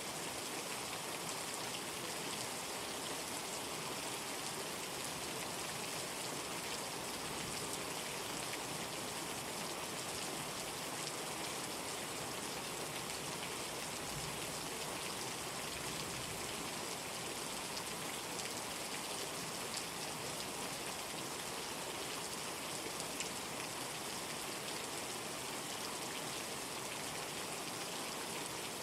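Steady rainstorm: rain falling at an even, unchanging level.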